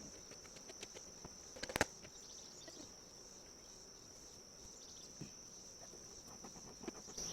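Insects trilling steadily and high-pitched in the background, with scattered light clicks and one sharp knock a little under two seconds in.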